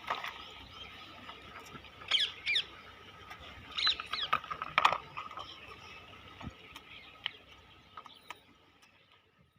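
Small birds chirping in short, quick, high calls, in clusters of a few, over a faint steady hum.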